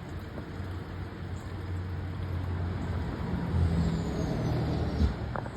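Wood chipper's small gasoline engine running unevenly. Its note rises and gets louder a little past halfway, then a sharp knock about five seconds in, after which it drops away.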